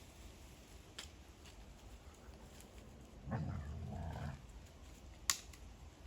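A dog gives one short vocal sound about a second long, roughly halfway through. Two sharp clicks come before and after it.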